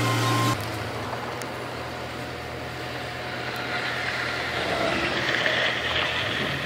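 Heavy vehicle engine running: a steady rumble and hiss. A louder, deeper machine hum cuts off suddenly about half a second in.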